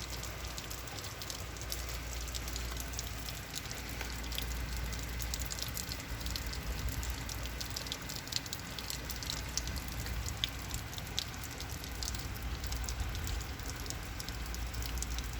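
Heavy rain pouring steadily, with many sharp drop impacts pattering over a constant hiss of rain.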